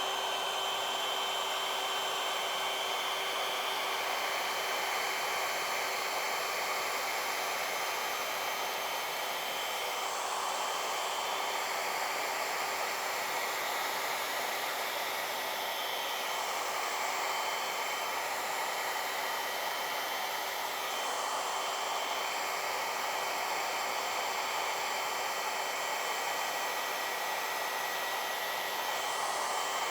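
Handheld hair dryer running on high without its diffuser nozzle, blowing acrylic pour paint across a canvas: a steady rush of air with a constant motor whine, shifting slightly now and then.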